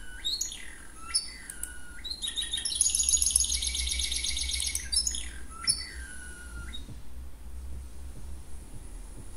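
A bird chirping: a series of short downward-sliding calls, with a long rapid trill in the middle, stopping about seven seconds in. A steady low hum sits beneath it.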